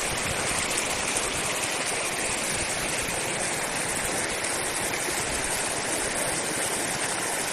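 Flowing river water rushing steadily, an even noise without breaks.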